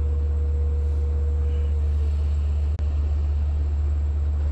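EMD DE30AC diesel locomotive standing at the platform with its engine running, a steady deep rumble. A steady tone fades out about two seconds in, and there is a single click a little before the three-second mark.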